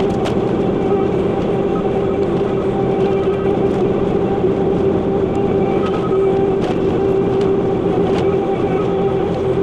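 Bobcat T86 compact track loader's diesel engine running steadily, with a constant whine over the engine, while it works a root grapple in a log pile. A few faint clicks and knocks come through now and then.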